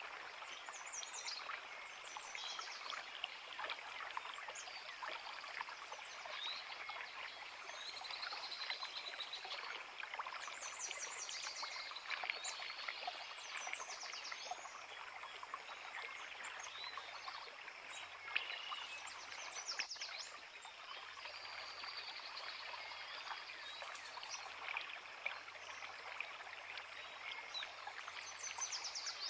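Creek water babbling steadily over rocks, with several birds singing: repeated short chirps and trills above the water sound.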